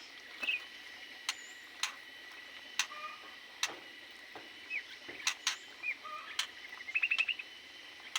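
Small aviary birds making short, scattered chirps, with a quick run of about six chirps near the end, among sharp irregular clicks and taps.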